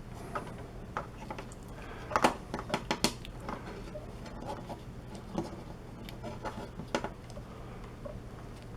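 Close handling noise of fabric and headphones being worked with safety pins: soft rustling and scattered small clicks and taps, sharpest about two and three seconds in.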